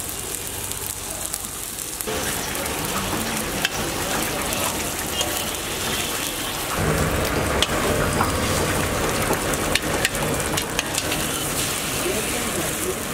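Beaten egg sizzling and frying as it is poured onto hot onion-tomato masala in a wok and spread with a metal spatula, with sharp clicks of the spatula against the pan. The sizzle gets louder about two seconds in and fuller again a little before the middle.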